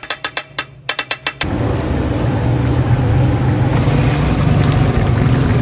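Metal spatulas striking a hot iron tawa in a fast, ringing rhythm, about five strikes a second, then a loud, steady roar and sizzle of chicken deep-frying in a large karahi of oil, with more hiss from about two-thirds of the way in.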